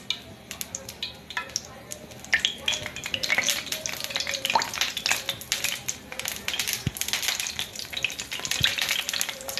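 Breadcrumb-coated donuts sizzling in hot oil in a frying pan as they are lowered in one at a time, an irregular crackle of many small sharp pops.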